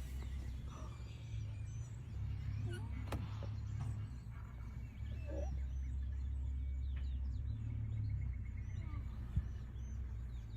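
Steady low rumble with scattered faint bird chirps and trills over it, and a few short clicks.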